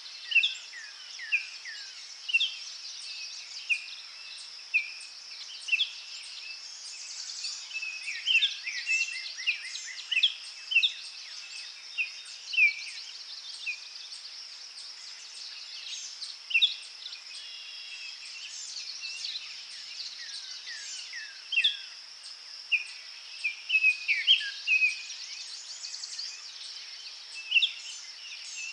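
Several birds singing and calling in a forest: many short chirps and quick falling whistled notes throughout, over a steady high insect-like hiss.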